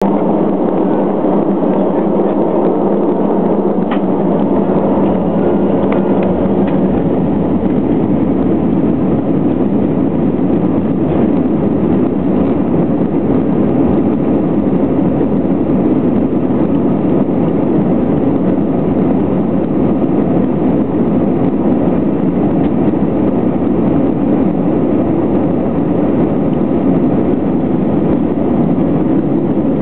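Airbus A320 jet engines and airflow at takeoff thrust, heard inside the passenger cabin: a steady, even rush, with a few faint tones in the first several seconds.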